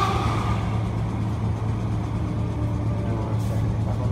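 Merseyrail electric train running at speed, heard from inside the carriage: a steady low rumble of wheels on the track. A brief higher whine fades out in the first half second.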